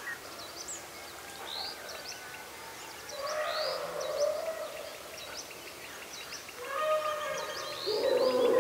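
Many birds chirping and calling together in quick, high notes. A lower, drawn-out sound rises beneath them twice, about three seconds in and again near the end.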